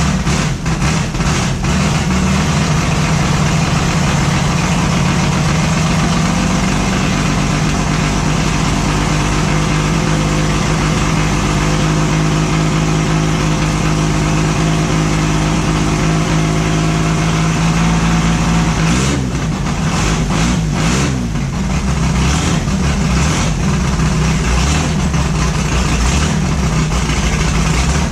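Engine running steadily during the break-in run of a newly installed camshaft. Its pitch wavers up and down briefly a little past the middle, then settles again.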